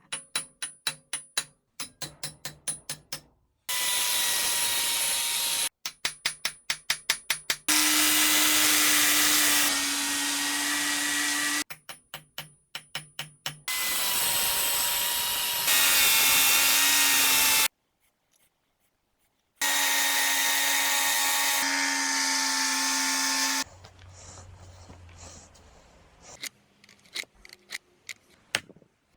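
An electric power tool's motor running steadily with a whine, in several abruptly cut stretches of about two seconds each. These alternate with runs of fast, evenly spaced clicks, about five a second. The last few seconds are quieter, with a low hum and scattered ticks.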